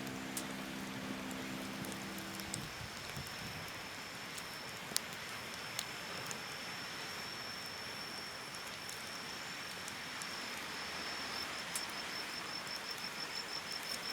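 An insect trilling at one high pitch, turning into a fast pulsing trill near the end, over a steady hiss with a few sharp clicks. A music track fades out in the first couple of seconds.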